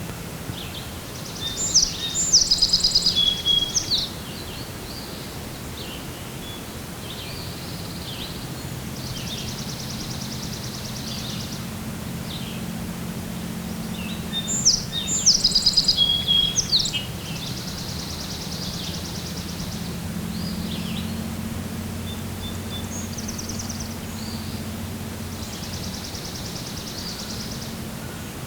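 Wild songbirds singing in the early morning: two loud, complex song phrases about 2 and 15 seconds in, with quieter buzzy trills repeating in between. A low steady hum runs underneath.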